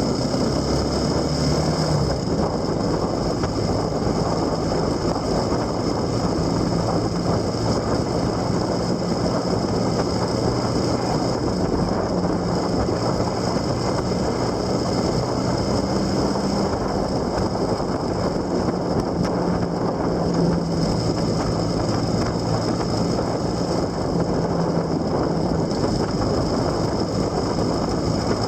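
Vehicle under way, recorded on board: steady wind and road noise with an engine hum that drifts slowly up and down in pitch as speed changes.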